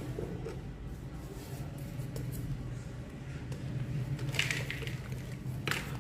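Crumbly chalk-like material crushed by hand: two short crunches, about four seconds in and again near the end, over a steady low hum.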